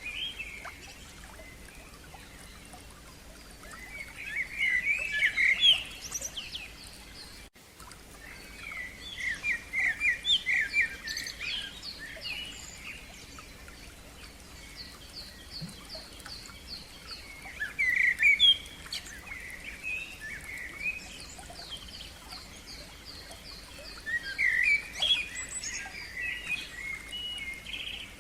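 Songbirds singing in loud bursts of quick, chirping phrases every few seconds. Between the bursts comes a long run of fast, evenly repeated high notes.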